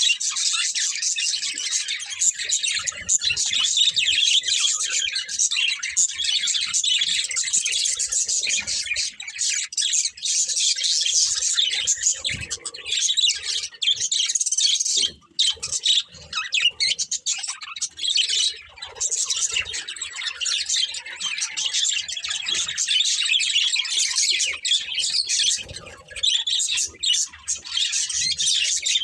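Budgerigars chirping and chattering continuously, a dense overlapping warble of many rapid high-pitched notes, pausing briefly about halfway through.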